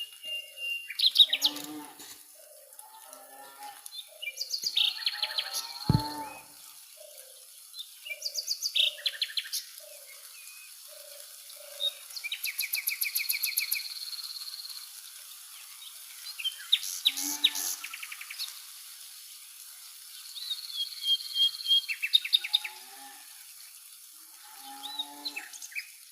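Birds chirping and calling, with bursts of rapid trills every few seconds and a run of short, evenly spaced lower notes in the first half.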